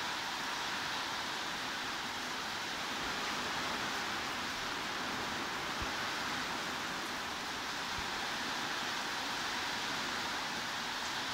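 Steady heavy rain: an even, unbroken hiss of downpour.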